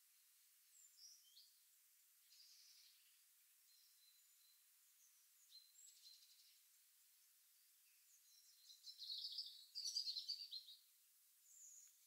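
Small songbirds calling with faint, scattered high chirps, then a louder burst of rapid twittering song about nine seconds in, lasting around two seconds.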